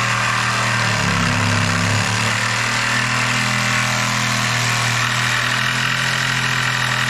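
An engine running steadily at a constant speed, with a strong hiss over it.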